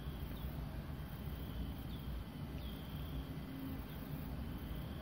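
Quiet background noise: a low steady hum with faint, short, high chirps repeating about once a second.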